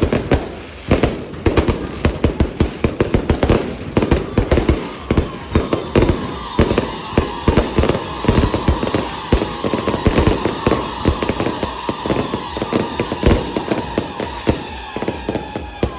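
A rapid barrage of fireworks going off, many sharp bangs a second. A steady tone joins about six seconds in, and the bangs grow a little softer toward the end.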